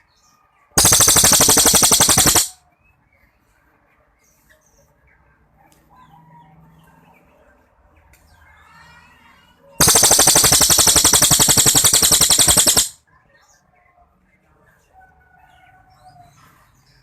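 Cililin songbird giving two long, loud, very rapid trilled volleys (the 'tembakan' prized by songbird keepers), the first about a second and a half long near the start, the second about three seconds long past the middle, with faint scattered chirps between.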